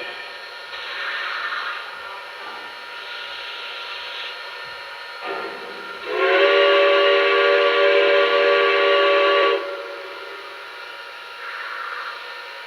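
Lionel Legacy Erie 4-6-0 model steam locomotive's onboard sound system: a few short bursts of steam hiss, then one long steady steam whistle blast of about three and a half seconds starting about six seconds in.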